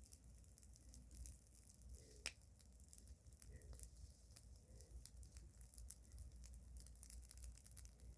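Faint crackling of a bonfire of pruned branches: scattered sharp pops and ticks, one louder pop about two seconds in, over a low rumble.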